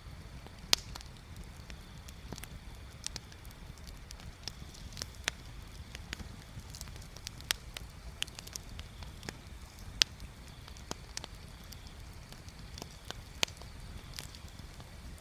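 Wood fire crackling, with irregular sharp pops of burning wood, the loudest about a second in, around ten seconds in and near the end.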